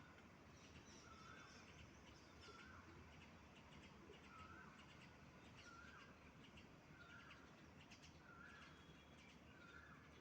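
Faint bird calls: one bird repeats the same short, hooked call about once a second, with fainter high chirps behind it.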